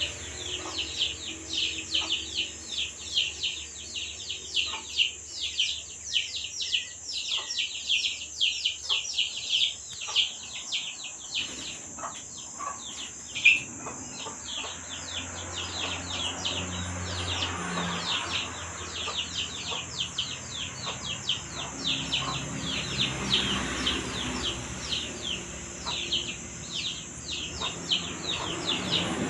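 Birds chirping without pause: short, high calls that drop quickly in pitch, several a second, over a steady high hiss. A single sharp click sounds about halfway through.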